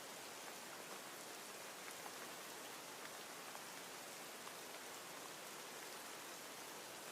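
Steady rain: a soft, even hiss of rainfall with faint scattered drop ticks.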